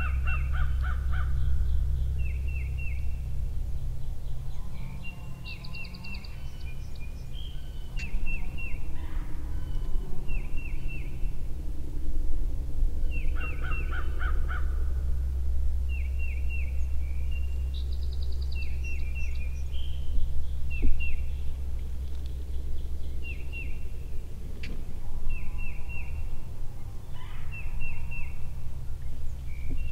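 Wild birds calling: short phrases of three or four quick high notes repeated every second or two, with a few louder, harsher calls among them. A steady low rumble runs underneath.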